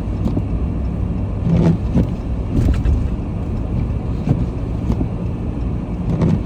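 Steady low rumble of engine and road noise heard from inside a slowly moving vehicle's cabin on a snow-covered road, with a few faint knocks.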